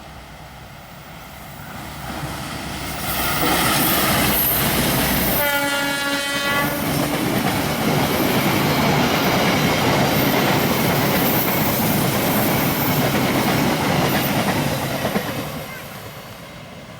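A train passes close by, its noise building up, holding loud for about ten seconds and then fading. Early in the pass, the locomotive gives one horn blast of about a second and a half.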